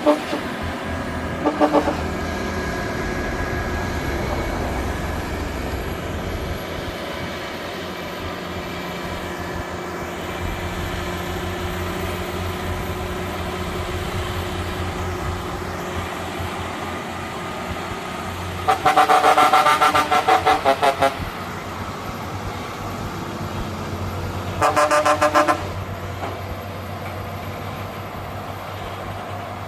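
Heavy truck's engine running steadily under load, with a horn sounded over it: two short toots near the start, a long pulsing blast of about two seconds past the middle, and a shorter blast a few seconds later.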